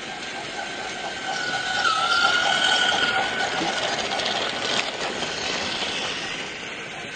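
A train running, louder in the middle, with a thin high whine over the mechanical noise that dips in pitch about two seconds in.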